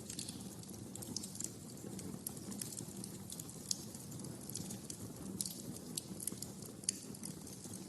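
Wood fire crackling in a fireplace: irregular sharp pops and snaps over a steady low rumble of the burning, with a louder pop now and then.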